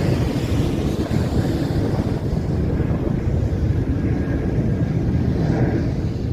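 Wind buffeting the microphone: a steady, heavy low rumble with a thin hiss above it.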